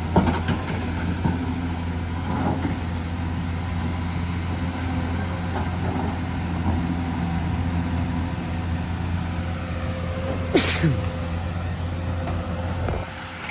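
Hyundai excavator's diesel engine running steadily under work, with a few knocks from the machine and a short falling squeal near the end.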